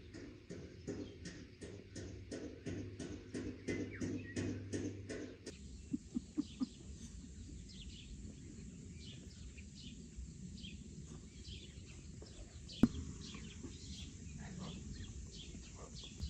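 A steady beat of about four pulses a second over held low tones, which stops about five seconds in. Small birds then chirp over quiet outdoor ambience, with a few light knocks and one sharp click.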